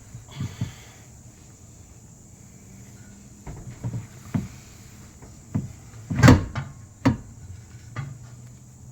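Scattered metallic knocks and clunks as the exhaust is pried and pulled against its rubber hangers under the car; the loudest knock comes a little after six seconds in, with a second sharp one about a second later.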